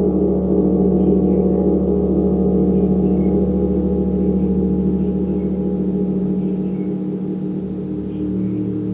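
Gong ringing in a sustained, low wash of many overlapping tones that pulse and shimmer, fading slowly toward the end.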